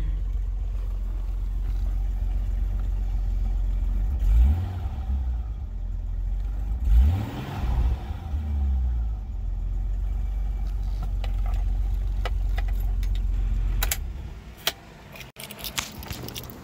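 1990 BMW E30's engine idling steadily, blipped twice, about four and seven seconds in, each rev rising and falling in pitch. About 14 seconds in the engine is switched off, and a few light clicks follow.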